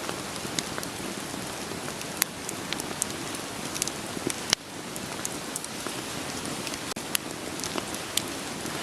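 Steady rain falling together with a wood fire crackling, with sharp pops of burning firewood scattered every second or so over the even hiss of the rain.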